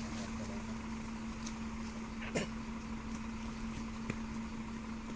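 A vehicle engine running with a steady hum, with one short sharp click about two and a half seconds in and a smaller one near four seconds.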